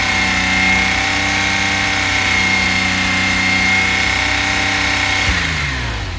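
Porsche 996 Carrera flat-six engine held at a steady raised speed with a steady high whine. About a second before the end the revs drop back down. The owner wonders whether the engine has bore scoring or piston slap.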